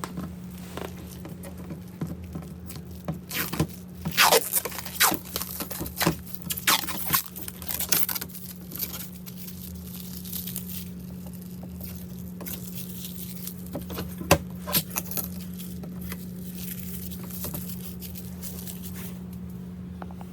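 Protective plastic film being peeled and pulled off a new portable washing machine: irregular crackling and ripping, loudest and busiest in the first half, then sparser handling noises. A steady low hum runs underneath.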